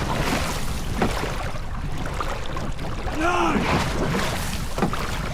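Steady wind and water noise around a paddled boat, with a couple of brief sharp knocks about a second in and near the end. A coach's shouted stroke count of "nine" comes partway through.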